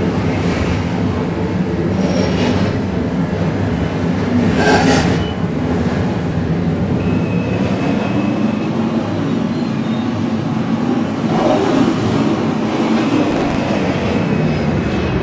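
R142 subway car running between stations, heard from inside: a steady low rumble of wheels on rail with a few brief swells of hissing rail noise, and a thin high tone for a few seconds midway.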